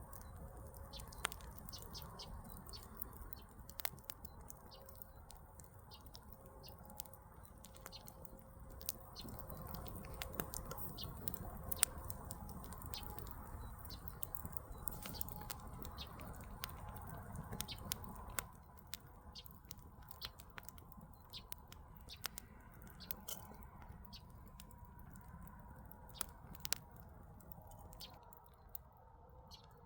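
Wood campfire crackling, with irregular sharp pops and snaps over the low steady rush of the flames; one pop about twelve seconds in is the loudest.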